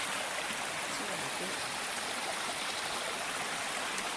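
A mountain stream rushing and splashing over rocks, a steady even hiss of running water.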